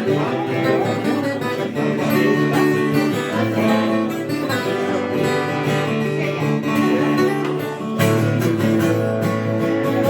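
Acoustic guitar playing a song's instrumental introduction, with a louder chord struck about eight seconds in.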